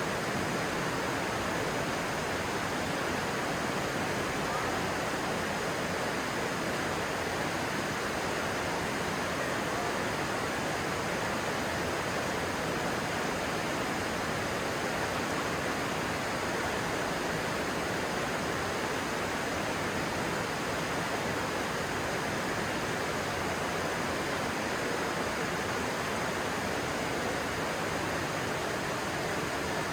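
Stream water rushing steadily, a constant even rush with no breaks.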